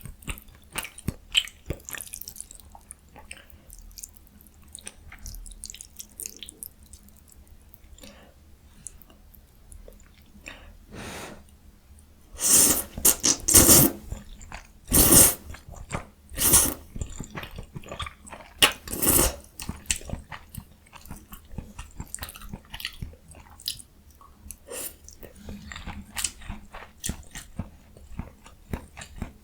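Close-miked mouth sounds of someone eating jjajang ramyun with young radish kimchi: chewing and biting with small wet clicks. A run of louder bursts comes about halfway through.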